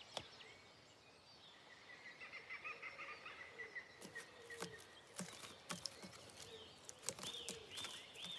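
Faint woodland birdsong: a trill begins about two seconds in, followed by scattered sharp clicks and short falling chirps.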